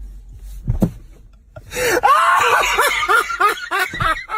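A person laughing in quick, loud pulses that rise and fall in pitch, starting about two seconds in, after a single knock just under a second in.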